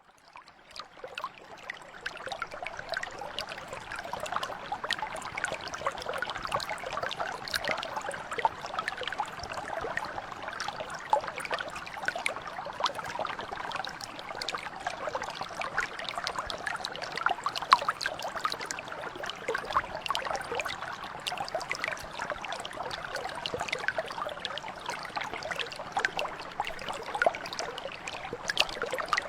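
Small mountain brook flowing over stones: a steady babble of many small splashes and trickles. It fades in over the first couple of seconds.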